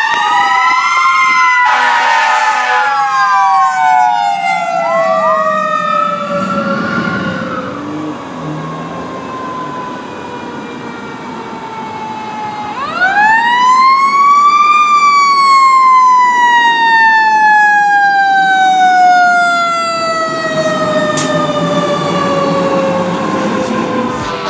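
Sirens of two fire engines responding code 3: wailing tones that slide down in pitch as the trucks go by, then a siren winding up to a peak about fifteen seconds in and slowly winding back down. Some low truck engine noise is heard under the sirens partway through.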